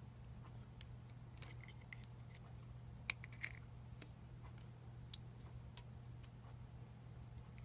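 Faint scattered clicks and taps of small hard parts of a replica lightsaber hilt being handled during disassembly, the sharpest click about three seconds in, over a steady low hum.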